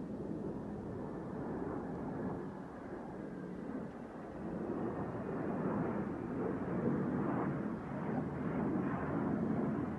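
Embraer KC-390 military transport's twin turbofan engines during a low flypast: a rushing jet roar that swells louder in the second half.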